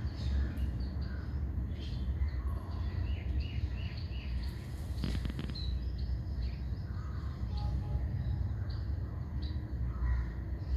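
Small birds chirping in short, high calls, with a quick run of little falling chirps about three seconds in, over a steady low rumble. A brief noisy burst comes about halfway through.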